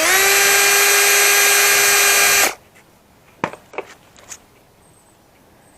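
Power drill running at a steady high whine for about two and a half seconds, then stopping, as it drives out fasteners to free a bar from a server rack; a few light clicks follow.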